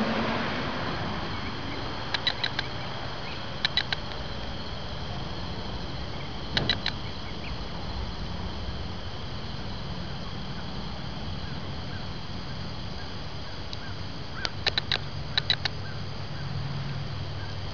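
Small bird chirping in short bursts of three or four quick, sharp notes, five times, over a steady low outdoor rumble.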